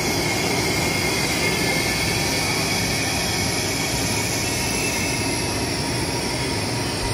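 A China Railway CRH Hexie high-speed train moving along a station platform, with a steady noise of wheels and running gear.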